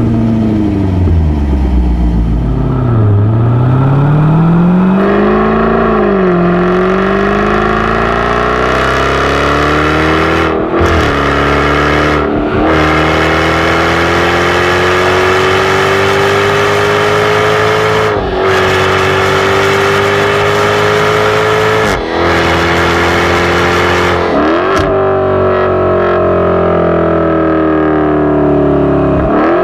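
Jaguar F-Type R's 5.0-litre supercharged V8 running under way, pulling through the gears: its pitch dips and rises at first, then climbs slowly and breaks off to restart lower five times, as at upshifts.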